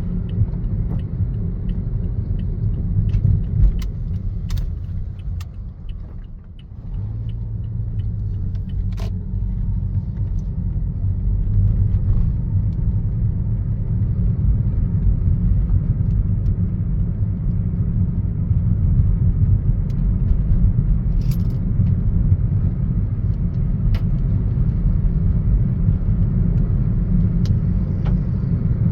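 A steady low rumble, with scattered faint ticks and a short drop in level about six seconds in.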